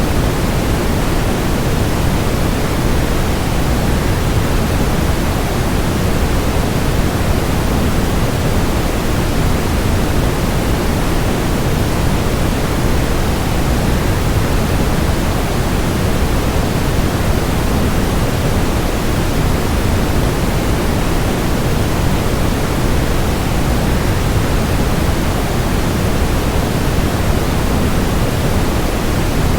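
Waterfall's falling water as a steady, unbroken rushing noise, fuller in the low end than the high, with no changes or separate sounds.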